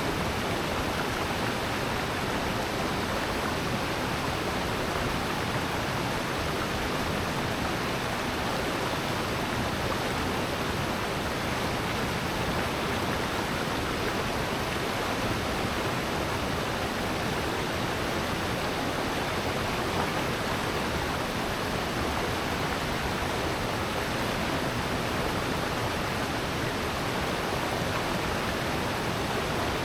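Water rushing steadily down a valley stream and waterfall: a constant, even rush with no breaks.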